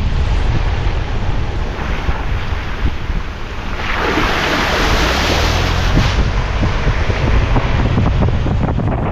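Wind buffeting the microphone over the steady rush of a swollen creek, the hiss swelling louder for about two seconds midway.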